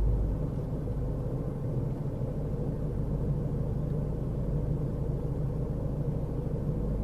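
Steady low rumble of a car driving, engine and road noise with no change in speed.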